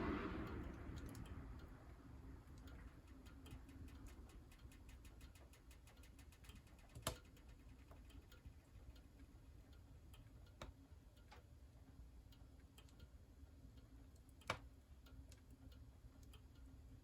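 Wood fire crackling in a wood stove: faint, irregular small ticks and snaps, with two sharper pops, one about halfway through and one near the end. A soft rushing noise fades out over the first couple of seconds.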